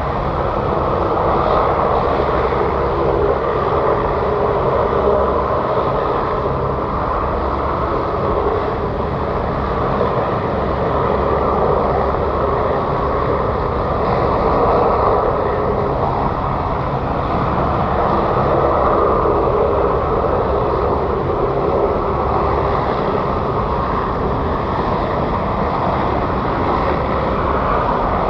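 Aircraft engines running, a loud, steady noise with small swells in level and no clear rise or fall in pitch.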